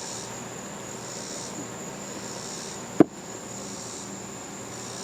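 Steady high-pitched insect chorus, swelling and fading about every second and a half, with a single sharp knock about three seconds in.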